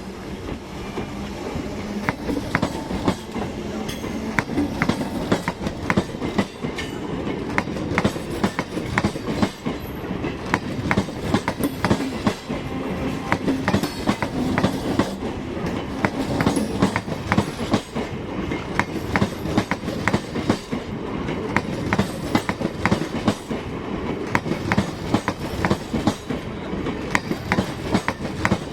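Old Indian Railways MEMU electric train pulling out, its wheels clacking rapidly over rail joints over a steady rumble. Under it runs a faint hum from the old nose-suspended traction motors.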